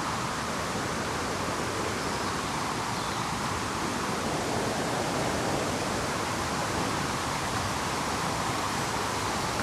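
River rapids rushing: a steady, unbroken roar of fast-flowing water.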